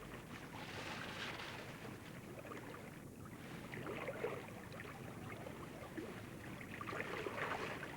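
Faint wash of sea water and wind, rising and falling in a few slow swells.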